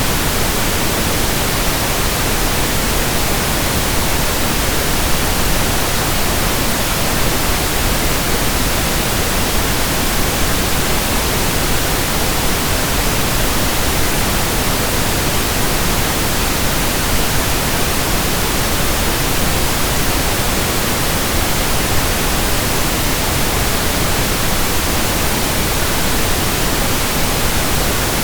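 Steady, unchanging pink noise: an even hiss spread across all pitches, with more weight in the low end than white noise has.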